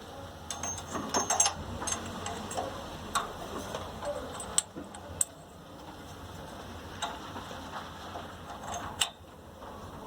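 Irregular light metallic clicks and taps of hand tools working on a small generator engine, as the spark plug is fitted into the cylinder head.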